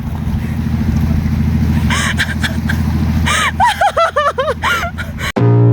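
Vehicle engine running steadily at low revs, with voices over it from about two seconds in. The sound cuts suddenly to music just before the end.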